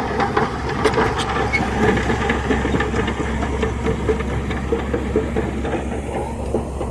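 Heavy diesel machinery running: a steady low engine drone with a busy, irregular rattle over it.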